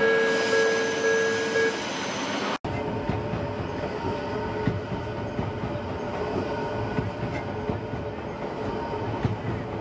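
Train passing through a level crossing, its wheels rumbling and clicking over the rail joints. At the start a steady two-note tone is held and stops about two seconds in, just before an abrupt cut.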